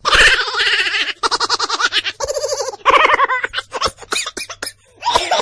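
A baby laughing: long stretches of quick pulsed giggling, then a run of short separate laughs, over a faint steady low hum.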